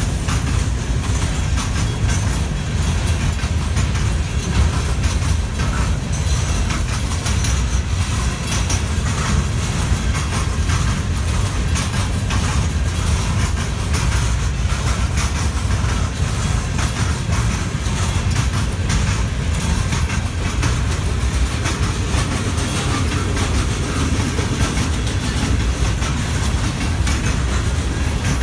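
Loaded freight cars, boxcars and then tank cars, rolling past close by. A steady heavy low rumble runs throughout, with a constant run of clicks from the wheels going over the rail joints.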